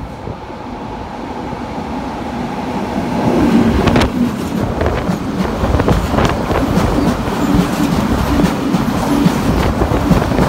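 Freight train of car-carrier wagons loaded with vans, hauled by an E.652 electric locomotive, passing close by. The rumble grows louder over the first few seconds as the train approaches. After that, wheels clack steadily over the rail joints as the loaded wagons roll past.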